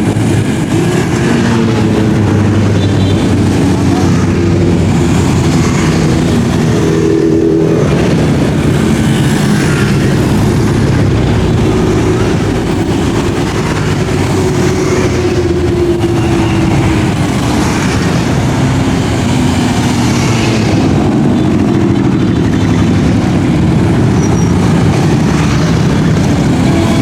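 Many motorcycles riding past in a continuous loud stream, their engines running and revving with pitches that rise and fall as bikes pass.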